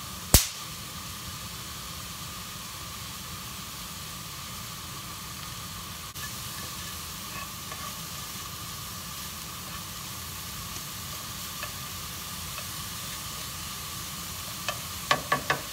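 Sliced mushrooms, garlic and onions sizzling steadily as they sauté in a skillet, with a spatula stirring them. There is one loud sharp knock just after the start and a quick run of four or five knocks near the end.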